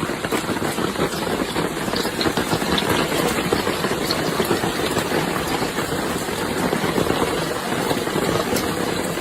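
Heavy hail falling hard: a dense, steady clatter of countless small impacts.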